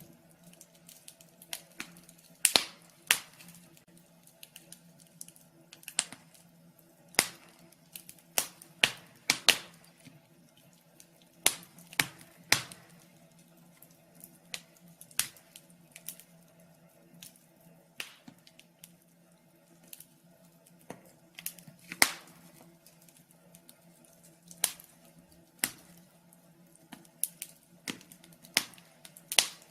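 Wood fire crackling: sharp pops and snaps at uneven intervals, one to three a second, over a faint steady low hum.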